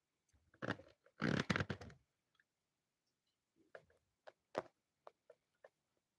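Irregular sharp clicks and small knocks, with a dense clatter of clicks a little over a second in and scattered single clicks after it.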